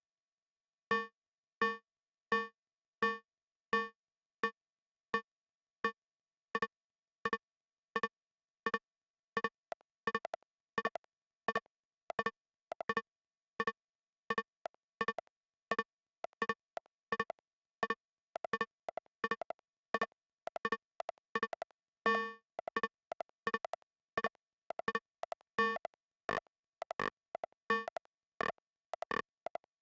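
Lorre-Mill Double Knot synthesizer playing a patch of short, plucked notes. After about a second of silence the notes begin as a steady pulse, roughly one and a half a second. From about ten seconds in they grow busier, with extra notes falling in between.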